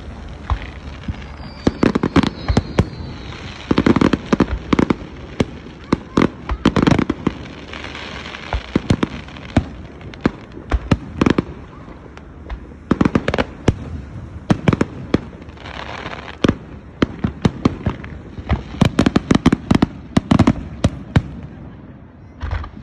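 Aerial fireworks display: shells bursting overhead in a long run of sharp bangs, at times several a second, each trailing off in an echo.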